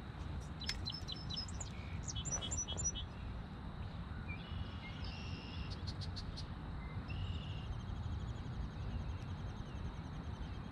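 Songbirds calling over a steady low rumble: short chirps and whistled phrases in the first half, then a fast high trill in the second half.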